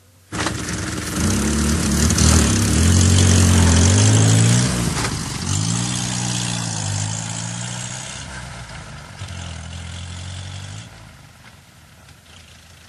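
Old motor car engine starting abruptly, then running and revving up and down several times with a rattle, gradually fading away near the end.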